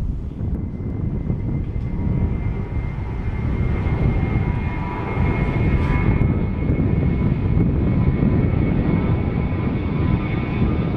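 Airliner engines running, a steady whine over a deep rumble, growing a little louder about halfway through.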